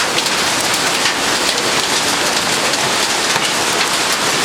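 Heavy rain mixed with hail coming down hard: a dense, steady hiss peppered with many small sharp hits.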